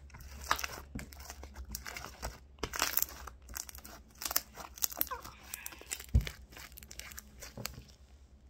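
Sticky glue slime mixed with shaving cream being squished, stretched and folded by hand, making irregular wet crackles and small pops, with one dull thump about six seconds in.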